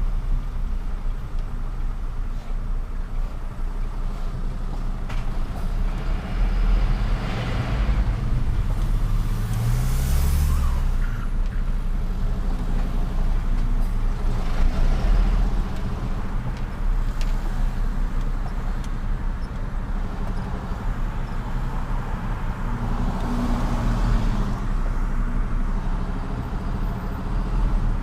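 Truck engine running steadily in city driving, its note rising and falling briefly about a third of the way in. Short bursts of air hiss from the air brakes come three times, the sharpest about a third of the way in.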